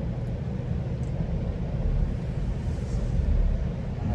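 GO Transit commuter train running along the track: a steady low rumble of the moving train.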